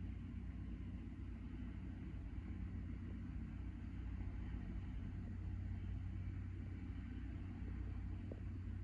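Steady low drone of an engine running at an even speed, with a couple of faint ticks near the end.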